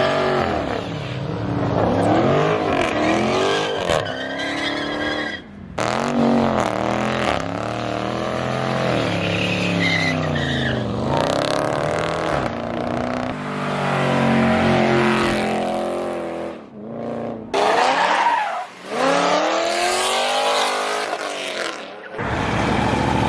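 Car engines revving and accelerating hard, their pitch climbing and dropping again and again, with some tire squeal, broken by several sudden cuts between clips.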